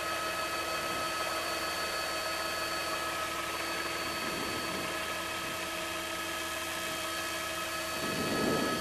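Helicopter engine and rotor noise heard inside the cabin: a steady rushing noise with a constant whine of several steady tones. A brief louder swell comes about eight seconds in.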